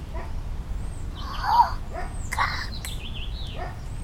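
Birds chirping in short repeated calls, with one louder, lower call about one and a half seconds in.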